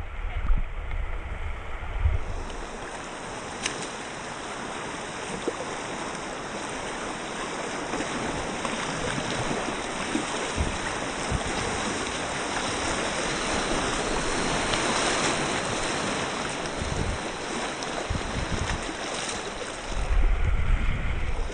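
Rushing river water, a steady hiss that swells louder around the middle, with low rumbles near the start and near the end.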